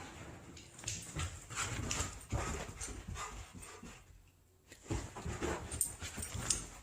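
A dog vocalising in short, irregular bursts, with a brief pause about four seconds in.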